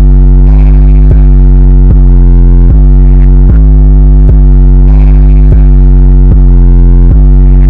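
Loud, distorted, bass-heavy synth music: a deep synthesizer bass line with a new note struck about every 0.8 s, at full level.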